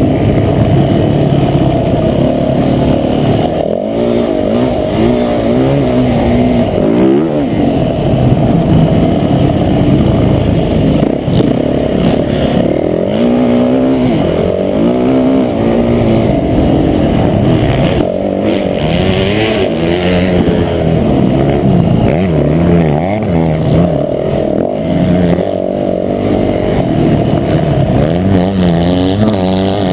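Motocross bike engine at race pace, revving up and dropping back over and over as the rider works the throttle and shifts through the gears.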